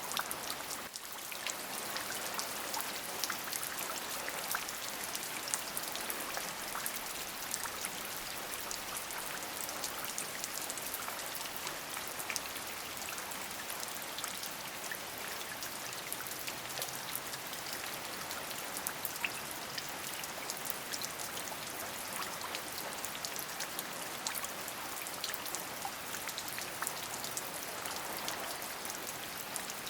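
Steady rain with many individual drops pattering on a surface, a dense hiss of falling water.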